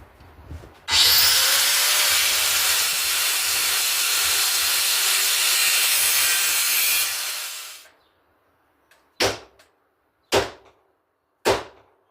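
A power tool runs loudly for about six seconds, starting abruptly and winding down, then three sharp snaps about a second apart.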